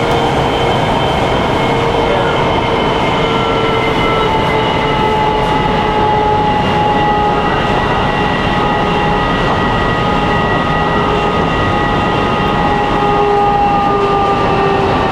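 Wuxi Metro Line 1 train running through a tunnel: steady wheel and rail noise with the electric traction motor whine, several tones slowly falling in pitch as the train slows between stations.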